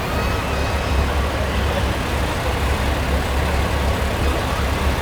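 Diesel engine of a Peterbilt semi truck running steadily with a deep, even rumble.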